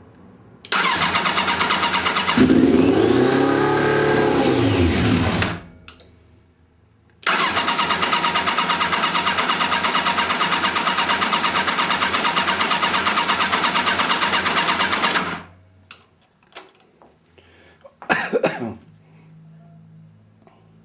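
Kawasaki ZZR1100's inline-four being cranked on the electric starter in a hard start after long storage: the first crank lasts about five seconds, with the engine briefly firing and its pitch rising and falling before it dies. After a pause, a second, steady crank of about eight seconds goes on without the engine catching, followed by a few clicks and a short rattle.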